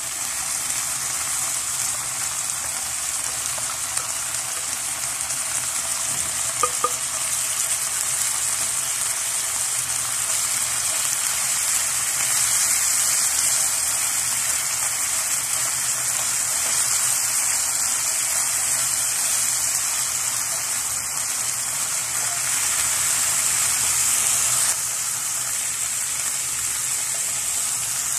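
Canned tuna and chopped onions sizzling steadily in oil in a non-stick frying pan while a wooden spatula stirs and breaks up the tuna. A quick double tap sounds about seven seconds in.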